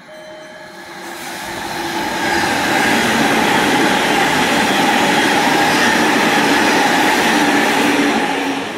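Electric train running past the platform: its rail and running noise builds over about two seconds, holds loud and steady with a faint whine in it, then drops away near the end as the train goes by.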